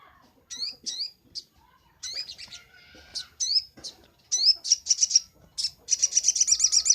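Sogok ontong (ruby-cheeked sunbird) singing: short, sharp, rising high-pitched chirps, breaking about six seconds in into a fast run of about ten repeated notes a second, the loudest part.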